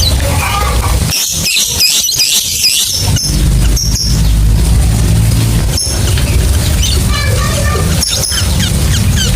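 Lovebirds chattering in rapid high-pitched squeaks and chirps, densest about a second in, over a steady low rumble.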